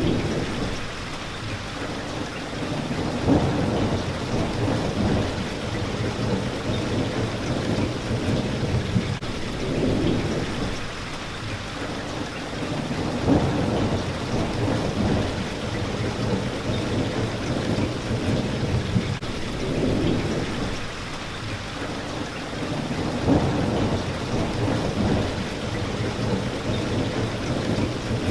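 Steady rain hitting a window pane, under low rumbles of thunder that swell and fade every several seconds.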